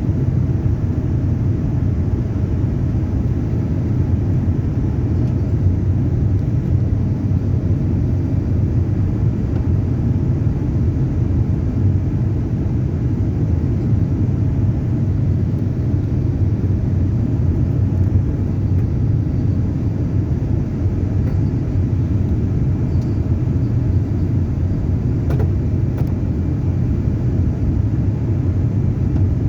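Steady low rumble of engine and airflow noise inside a passenger jet's cabin.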